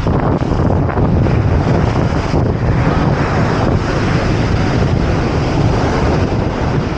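Wind buffeting the microphone with a heavy low rumble, over the steady wash of ocean surf.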